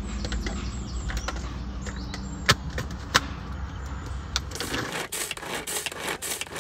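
Food-preparation clatter: utensils knocking and scraping on a chopping board and bowl, with two sharp knocks about halfway through and a run of quick chopping and scraping strokes near the end.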